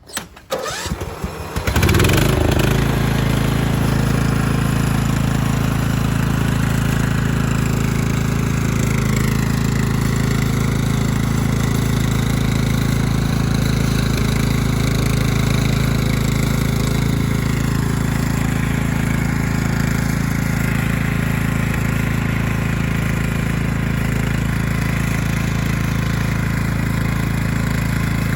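An engine is cranked and catches about two seconds in, then runs steadily at idle.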